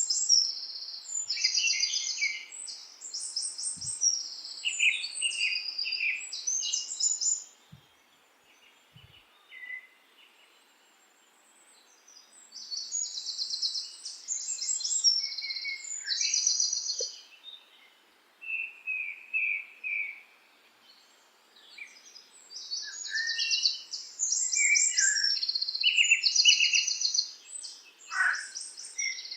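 Songbirds singing: high, rapid trilled and chirping phrases in bouts, with a quiet stretch of a few seconds in the first half.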